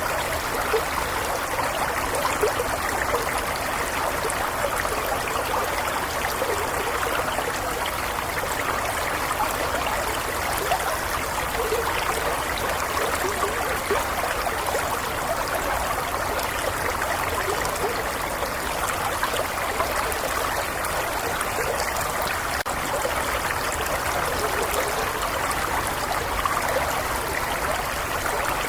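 Shallow stream flowing and babbling steadily over stones, a continuous even burble of running water.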